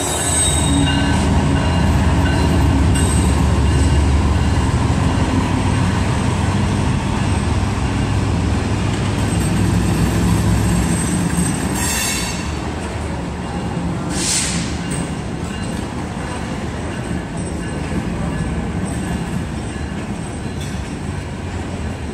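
BNSF freight train passing: the diesel locomotive's engine rumbles low for about the first half, then the freight cars' wheels roll steadily over the rails. A short high wheel squeal comes about two-thirds of the way through.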